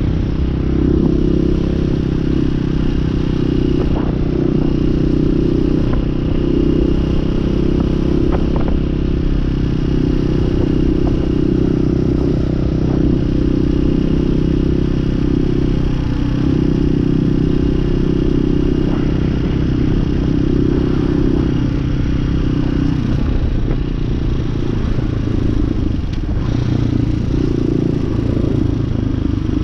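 Hawk 250cc dual-sport motorcycle's single-cylinder engine running steadily under way, at a fairly even pace with small changes in pitch.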